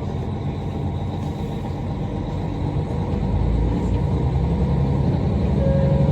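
KiHa 40 diesel railcar running, heard from on board: a steady low rumble, with a steady engine hum coming in and growing louder from about four seconds in.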